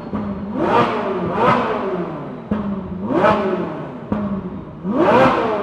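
Vehicle engine revved repeatedly: four quick rises in pitch, each falling back toward a steady idle.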